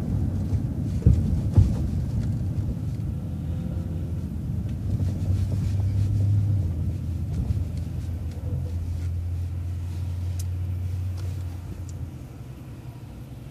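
Transit bus engine and road rumble heard from inside the vehicle as it turns and drives on, a steady low drone that swells about halfway through and eases off near the end. Two sharp knocks sound about a second in.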